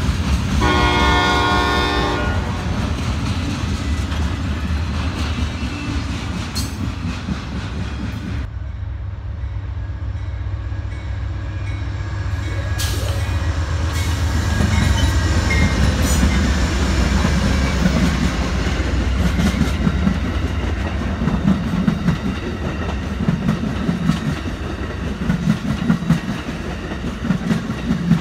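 A multi-chime train horn sounds once, briefly, over the rumble of a passing freight train. After a cut, an Amtrak passenger train led by a GE Genesis diesel locomotive rumbles past, and its bi-level Superliner cars' wheels then clack in a steady rhythm over the rail joints.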